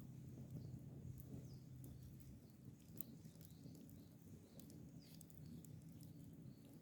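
Quiet outdoor ambience with a low steady hum and scattered faint ticks and crackles, plus a few faint chirps.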